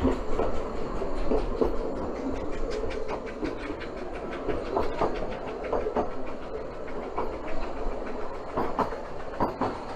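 Vale of Rheidol narrow-gauge railway carriage running along the line, with steady wheel-on-rail noise and frequent clicks and knocks from the wheels over rail joints and the rattling coach.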